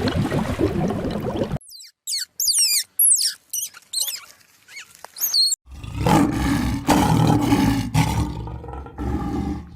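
A compilation of separate animal calls. A rough, low sound cuts off about a second and a half in. Then come high, quick chirps that slide down in pitch, with short silences between them. From about six seconds in, a tiger gives a deep, drawn-out roar that lasts about four seconds and is the loudest thing here.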